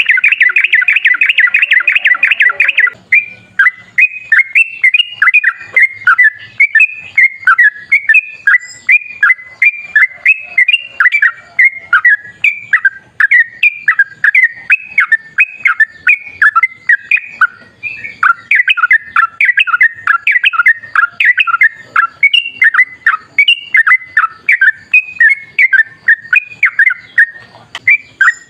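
Yellow-vented bulbul (trucukan) singing: a fast rolling trill for about the first three seconds, then a continuous run of quick chirping notes.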